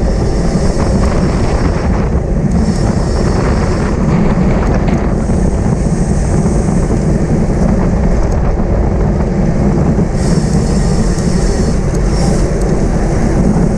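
Wind rushing over the microphone of a camera on a bicycle ridden at race speed, a steady loud rumble with tyre and road noise under it.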